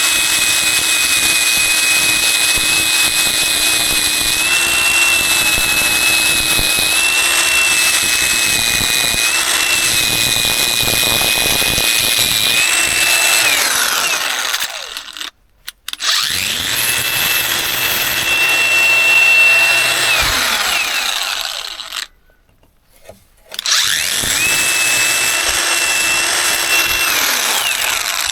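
A handheld electric power tool's motor running at a steady high-pitched whine over a rough noisy hiss. About fourteen seconds in it winds down and stops, then starts again; it stops again a little past twenty seconds and restarts, then dips briefly near the end.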